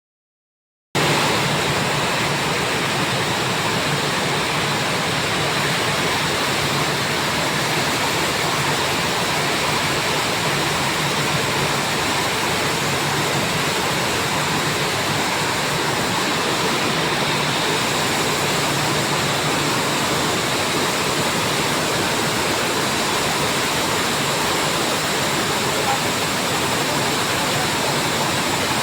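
Washing machine on its spin-dry cycle, running with a steady rushing whir and a faint hum, starting about a second in.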